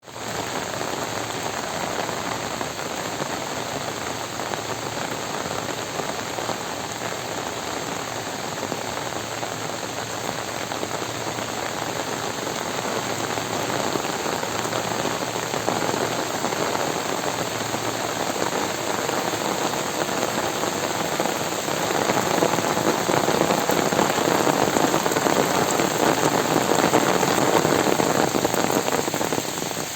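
Heavy rain falling steadily on surfaces, a dense unbroken patter that grows louder about two-thirds of the way in.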